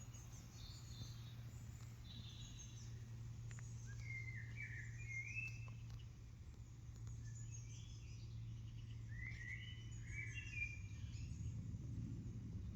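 Small birds chirping in short bursts of repeated calls, over a steady low background hum.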